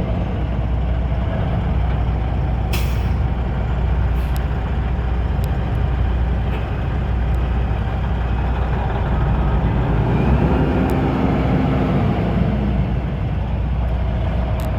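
Diesel engine of a 1996 Kenworth tandem-axle dump truck running steadily, with a short hiss of released air from the air brake system about three seconds in. The engine note rises a little around ten seconds in.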